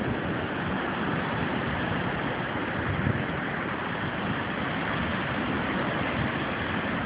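Hurricane wind gusts blowing, a steady rushing noise with uneven low rumbles underneath.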